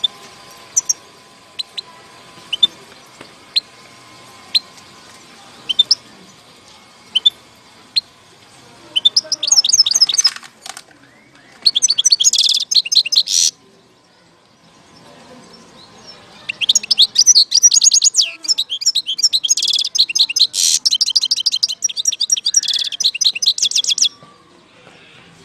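European goldfinch singing. It gives scattered single sharp call notes about once a second, then three runs of fast, twittering song, the last and longest lasting about seven seconds.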